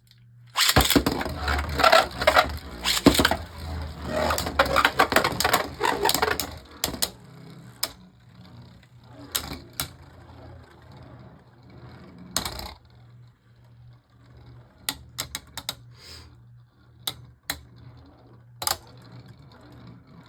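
Beyblade Burst spinning tops, Harmony Pegasus against Glyph Dragon, clattering against each other and the plastic stadium. A dense run of rapid hard clicks and scrapes lasts about six seconds, then gives way to scattered single sharp clicks as they keep colliding.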